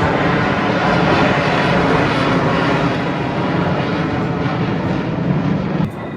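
Loud, steady roar of an F-16 fighter jet's engine during a display pass; the sound drops away sharply near the end.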